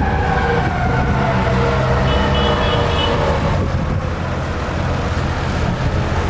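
2023 Ferrara Cinder fire engine's siren falling in pitch and fading out after a few seconds, over the low rumble of the truck's engine and road noise. A brief high steady tone sounds at about two to three seconds in.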